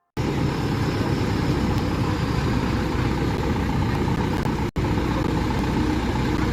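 Truck engine running amid road traffic noise. It cuts in suddenly at the start and drops out for an instant about two-thirds of the way through.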